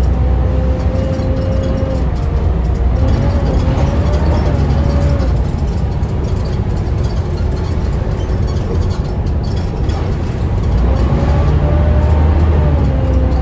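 Volvo B7TL double-decker bus running, a deep engine rumble under a 'hoover' whine that rises and falls in pitch several times as it pulls and eases off.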